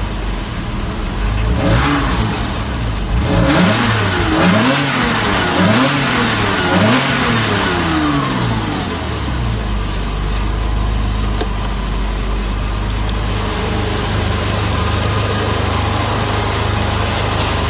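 Porsche Boxster 986's 2.5-litre M96 flat-six engine idling, then blipped through several quick revs, each rising and falling in pitch, before settling back to a steady idle about ten seconds in.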